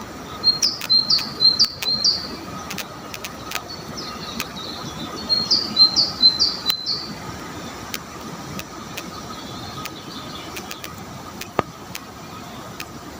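A songbird singing two short phrases, each four or five quick, high, repeated notes, the second about five seconds after the first. Under the song runs a steady low rumble, with a few light clicks.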